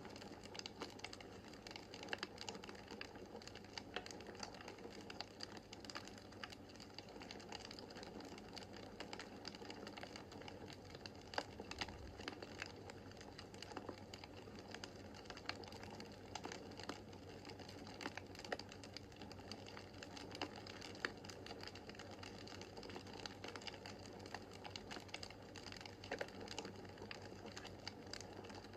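Wood fire crackling in a fireplace: many small irregular pops and ticks over a soft steady hiss, with a few louder snaps.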